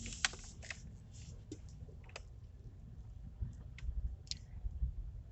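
Low, steady rumble inside a car cabin, with about half a dozen scattered light clicks and ticks.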